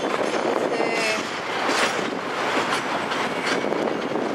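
Metra commuter train rolling past on the track, its wheels clicking steadily over rail joints.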